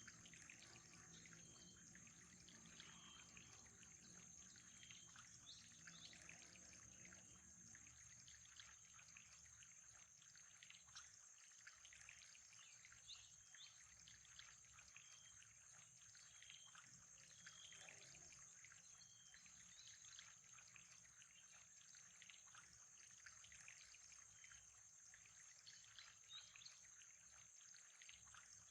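Faint nature ambience: trickling water, a steady high insect drone, and short chirps repeating every second or two.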